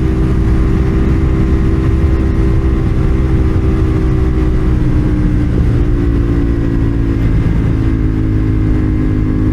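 CFMoto 450SR's parallel-twin engine running steadily while the motorcycle is ridden, under rushing low-pitched noise; the engine note shifts about halfway through.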